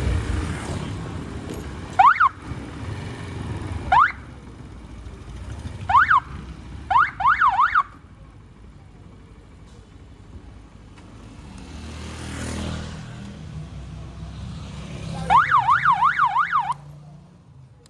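Electronic siren-style chirps, each a quick rising-and-falling whoop: single ones about 2, 4 and 6 seconds in, a fast run of four near 7 seconds, and a run of about seven near the end. Under them runs a low street-traffic rumble, with a vehicle passing midway.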